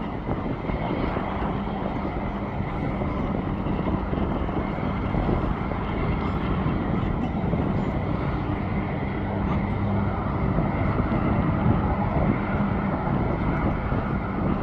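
Steady jet airliner engine noise, an even rumble with a faint low hum running under it.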